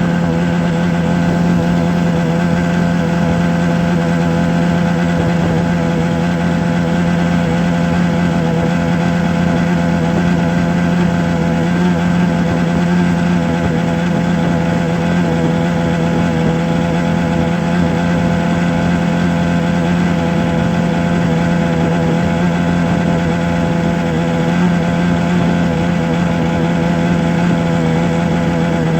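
A steady low-pitched hum that holds one constant pitch throughout, with a faint rough noise under it.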